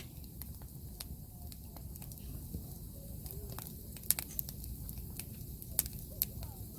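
Burning firewood crackling, with scattered sharp pops over a steady low rumble of the fire; the loudest pops come about four seconds in and twice near the end.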